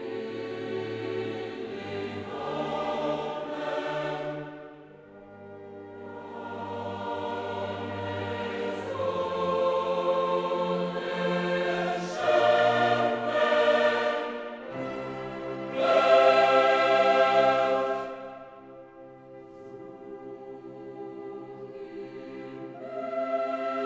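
Choral music: a choir singing held chords that swell and fade in long phrases, loudest a little past the middle.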